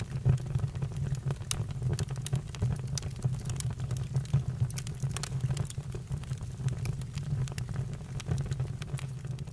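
Campfire crackling: irregular pops and snaps over a steady low rumble from the burning fire.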